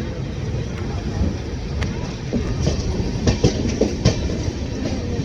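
Train running through at speed: a steady low rumble of wheels on rail, with a few sharp clacks in the second half as the wheels cross rail joints and points.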